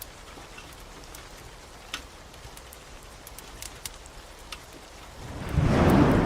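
Steady rain with scattered sharp crackles of a wood fire. About five seconds in, a loud rumble of thunder swells up and stays.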